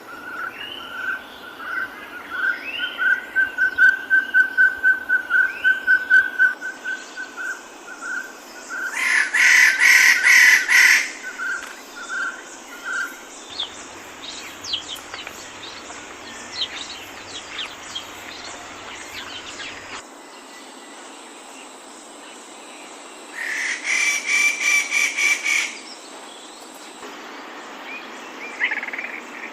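Jungle birds calling over a steady hiss of insects: a whistled note repeated several times a second for the first dozen seconds, with two loud buzzing, chattering bursts about ten seconds in and again near the end.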